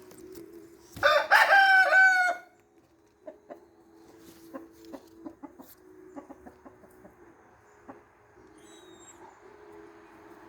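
A rooster crows once, about a second in, in a single loud call lasting about a second and a half.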